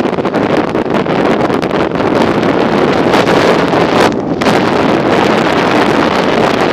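Heavy wind buffeting on the microphone of a camera riding along on a bike, a loud, continuous rushing with rapid irregular gusty thumps.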